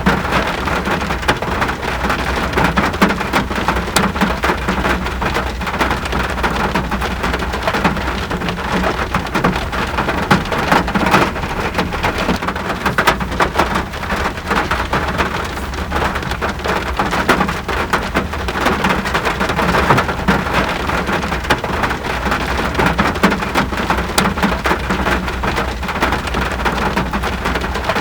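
Steady rain falling, a dense patter of individual drops over a continuous hiss, with an even low rumble underneath.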